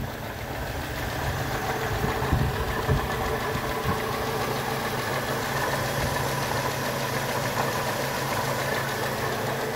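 A 1984 Toyota 4Runner's carbureted 22R 2.4-litre four-cylinder engine idling steadily in the open engine bay, running as it should by the owner's account. A few light knocks sound between about two and four seconds in.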